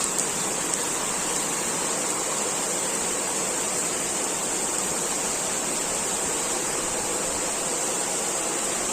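Steady rain falling, an even hiss of many drops, with a couple of louder drop ticks in the first second.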